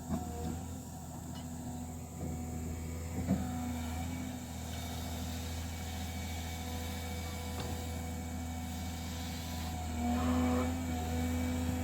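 Heavy diesel engine running steadily, with a few short metallic knocks, and it grows louder for a moment near the end.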